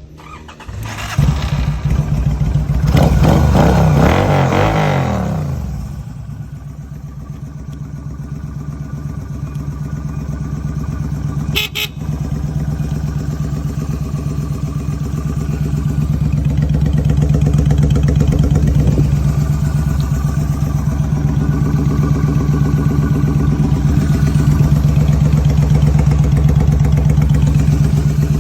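Motorcycle engine catching about a second in, revved briefly with a rising then falling pitch, then settling into a steady idle. A short sharp click sounds near the middle.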